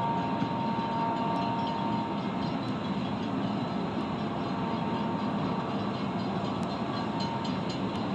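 Cars of a long, loaded Portland and Western mixed freight train rolling past on the rails with a steady rumble. A faint high tone fades out about two seconds in.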